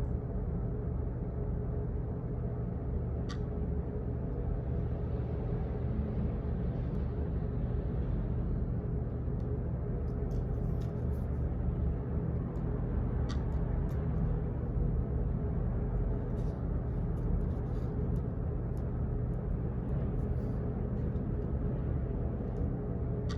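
Office background noise: a steady low hum and rumble, with a few faint, scattered clicks.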